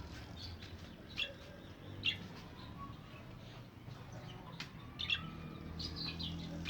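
Chicks peeping in short, high chirps, scattered through and loudest about a second and two seconds in and again near five seconds, over a low steady hum.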